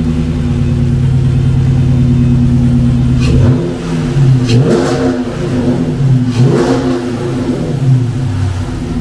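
2013 Dodge Challenger engine fitted with a new cold air intake, idling steadily and then revved in a series of quick blips from about three seconds in.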